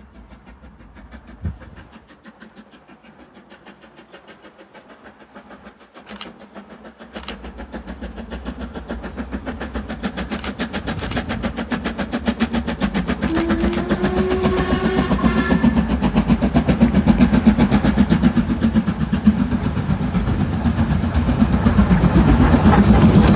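LMS Stanier Black Five 4-6-0 steam locomotive approaching at speed with its train, its exhaust beats in a fast, even rhythm that grows steadily louder as it nears. A few sharp clicks come in the middle.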